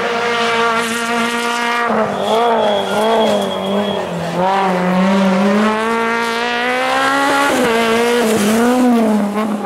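Rally car engine at high revs on a stage, the pitch rising and falling sharply several times as the driver lifts and gets back on the throttle through corners.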